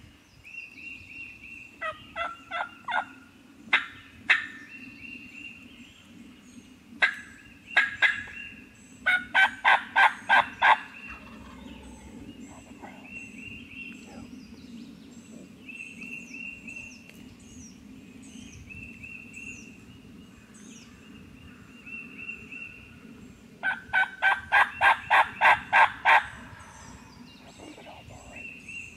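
Eastern wild turkey gobblers gobbling on the roost: several loud rattling gobbles, the longest about a third of the way in and again near the end. Songbirds sing short high notes in between.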